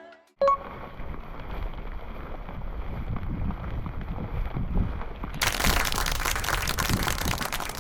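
Strong mountain wind buffeting the microphone as a low rumble. About five seconds in, a harder gust adds a loud rushing hiss for the last few seconds.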